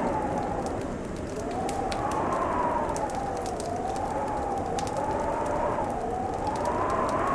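Wood fire crackling with scattered sharp pops, over a howling wind whose whistle wavers up and down in pitch every second or two.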